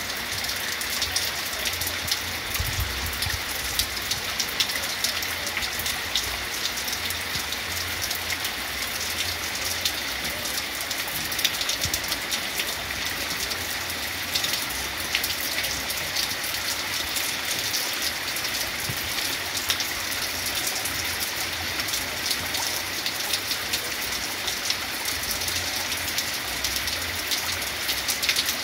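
Heavy rain falling steadily: an even hiss dotted with many sharp ticks of single drops.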